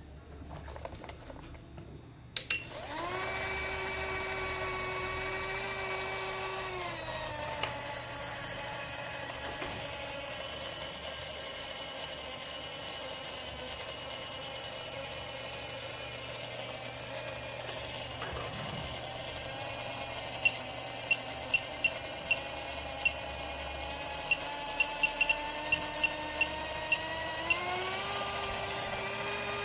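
The small electric motor of a modified toy spinner helicopter, driven at high voltage, spins up into a steady high whine. Its pitch dips slightly a few seconds in and climbs again near the end, with a run of sharp clicks in the second half.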